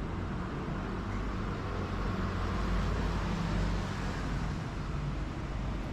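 Street traffic noise with a low steady rumble; a passing vehicle swells louder in the middle and fades again.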